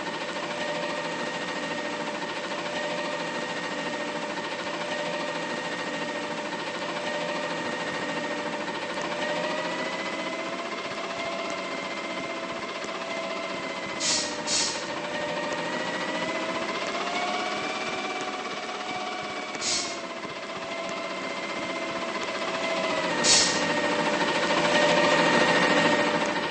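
Heavy diesel engine of a Mack LR front-loader garbage truck running, its pitch climbing and falling back a few times as it speeds up. Four short, sharp knocks come through it, two close together about halfway in, and the drone gets louder near the end.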